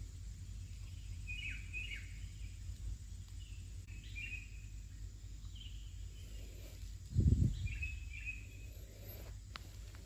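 Short, repeated bird chirps, a few at a time every second or two, over a steady low rumble of outdoor background noise. A brief low thump about seven seconds in is the loudest sound.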